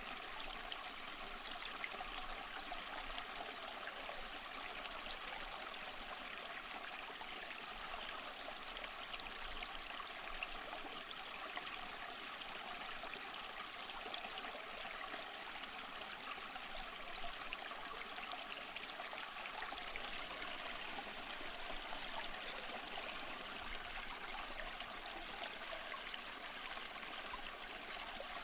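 Steady, unbroken rush of falling water from a waterfall, bright and hissy with little bass.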